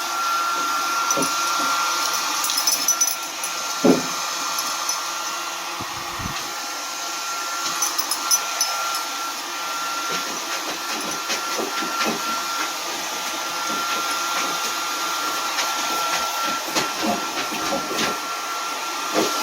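Blow dryer running steadily while drying a freshly bathed dog's coat: a continuous rush of air with a steady high whine, and a few light knocks.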